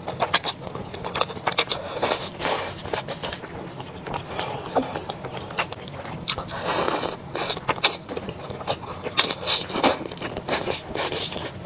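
A person eating: bites and chewing with crunchy, crackling clicks, with heavier crunching bursts about seven seconds in and again around ten seconds.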